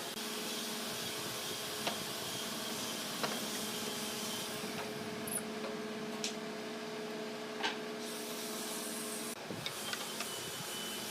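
A small electric motor hums steadily, with a few light knocks, and cuts off about nine seconds in.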